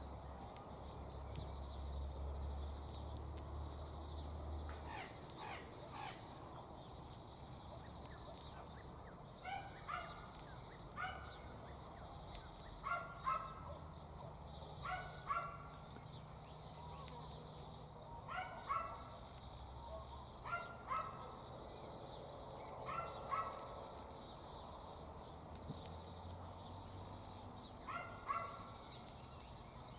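Repeated short harsh calls from an animal, mostly in pairs, coming every two to three seconds from about nine seconds in, over faint high ticking.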